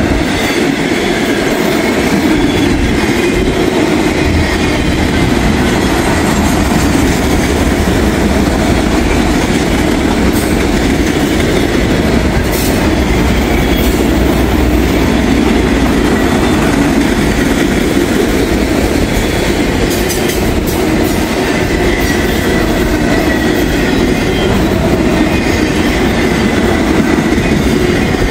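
Empty autorack freight cars rolling past at close range: a steady, loud rumble of steel wheels on the rails.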